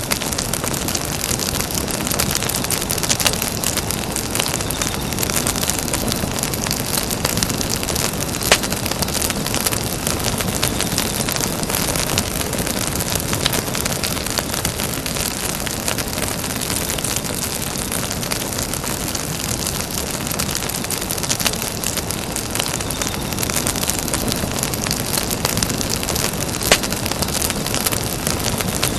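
Campfire burning: a steady hiss with scattered sharp crackles and pops, a louder pop about eight seconds in and another near the end.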